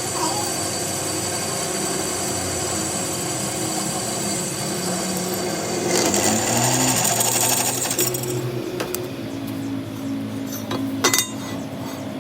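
Workshop machine running steadily with a mechanical hum. Its pitch rises about six seconds in and it runs louder for about two seconds before settling. A sharp metallic click comes near the end.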